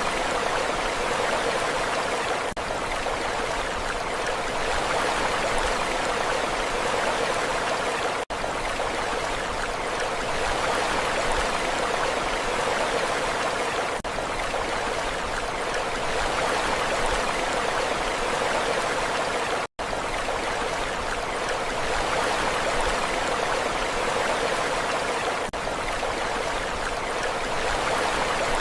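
Steady rushing water, an even, unbroken hiss with no rise and fall of waves. It cuts out for an instant twice, about eight and about twenty seconds in.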